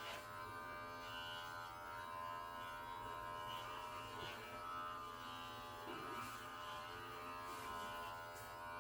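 Electric pet hair clippers running with a steady buzz.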